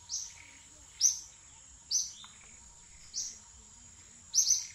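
A bird calling repeatedly: short, high, falling chirps about once a second, the last a quick double, over a steady high-pitched whine in the background.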